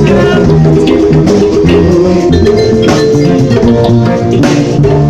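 Police band playing an upbeat dance number, with pitched melody lines over steady percussion and bass.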